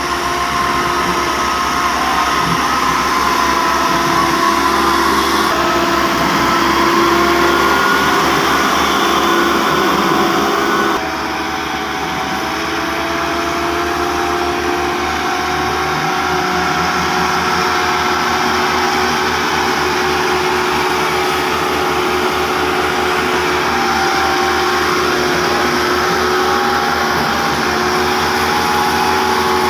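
Tractor engine running steadily with a whine over the engine noise. The sound changes abruptly twice, about five and eleven seconds in.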